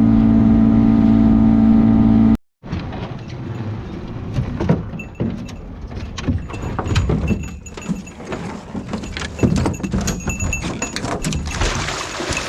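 A boat motor running at a steady drone, cut off abruptly about two seconds in. After it come irregular knocks, clinks and metallic rattles of gear being handled.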